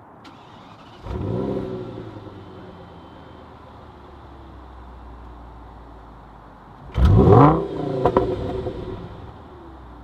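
Audi S8's V10 engine on its stock exhaust, idling and blipped: one short rev about a second in, then a louder rev near the end followed by a quick second blip, each dropping back to idle.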